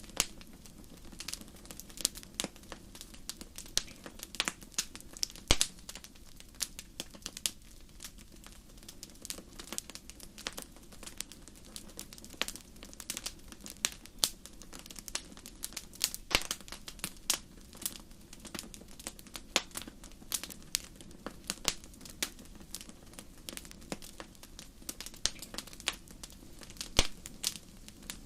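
Wood campfire crackling: irregular sharp pops and snaps, sometimes several in quick succession, over a low steady hiss of the burning fire.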